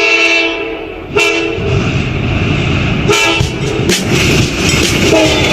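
Train horn sounding a long blast, then a few short toots. Under them the rumble and clatter of a moving train builds from about one and a half seconds in.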